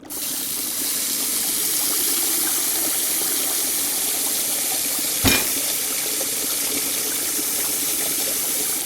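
Water gushing steadily from a running tap, starting abruptly; a single knock about five seconds in.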